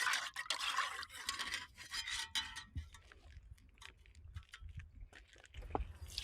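A camping pan being scrubbed clean with stream water: a quick run of short scraping strokes for the first couple of seconds, then fainter, more scattered rubbing.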